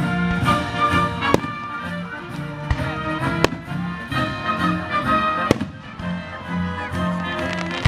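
A live symphony orchestra playing outdoors while fireworks burst, with three sharp firework bangs about two seconds apart over the sustained music.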